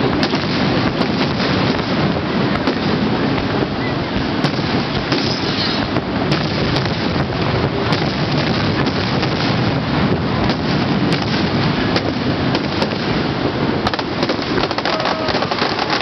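Fireworks popping and crackling in many quick sharp cracks over a steady, loud rushing roar of falling water from Niagara Falls.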